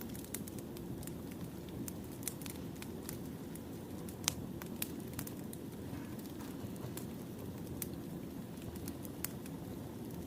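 Firewood burning: a steady low rush of flame with irregular sharp pops and crackles, one louder pop about four seconds in.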